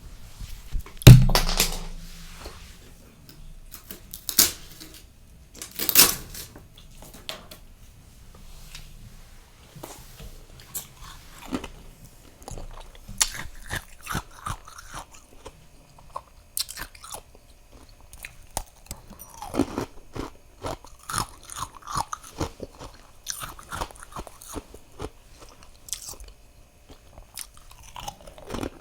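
A person biting and chewing crunchy freezer frost, close up. There is a loud crunch about a second in and sharp bites near four and six seconds, then a steady run of small crisp crunches as it is chewed.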